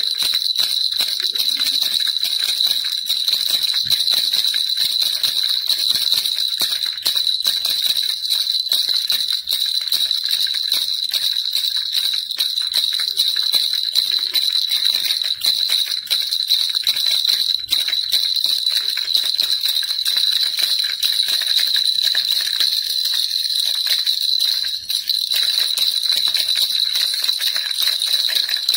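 Baby rattle shaken continuously: a dense, steady jingling and rattling with a bright ring.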